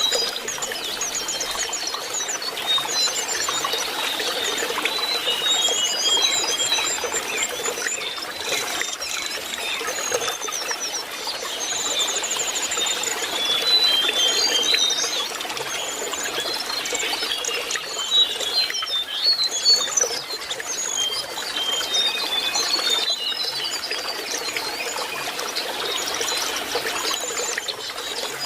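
Lesser shortwing singing: a constant stream of quick, high twittering phrases, trills and short whistled notes, over a steady trickle of running water.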